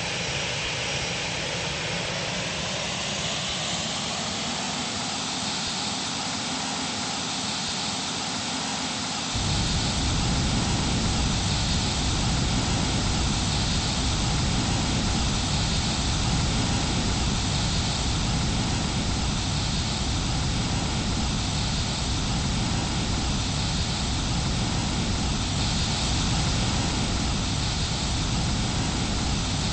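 Airbus A320 jet engines running with a steady roar; the higher whine rises over the first few seconds. About nine seconds in, a deep rumble comes in suddenly and the sound grows louder.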